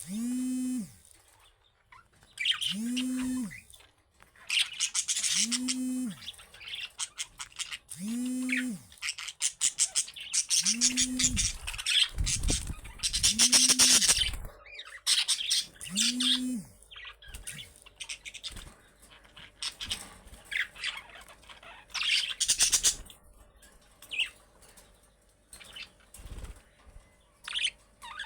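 Budgerigars chirping and chattering in bursts, with clicks and wing flutters. Through the first two thirds a low tone that rises and falls repeats about every two and a half seconds, seven times, then stops.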